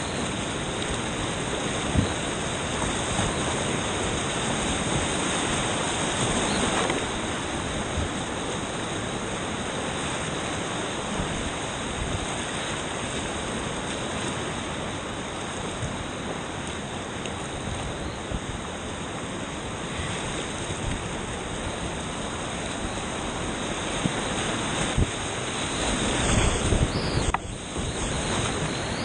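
Rushing creek whitewater: a steady, even rush of moving water, louder and more broken for a moment near the end.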